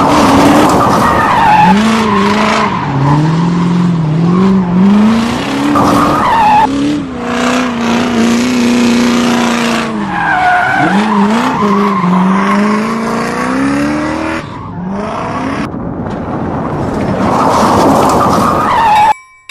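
Heavy truck engine revving, its pitch rising and falling repeatedly, with tyre squeals. The sound cuts off suddenly near the end.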